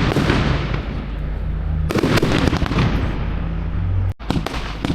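Fireworks display: loud bursts at the start and again about two seconds in, each followed by dense crackling that trails off. The sound drops out for an instant near the end.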